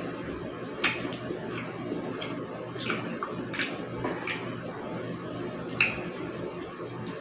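A person eating pork sinigang at close range: short, wet mouth smacks and chewing clicks, about half a dozen, the loudest about a second in and near six seconds, over a steady low hum.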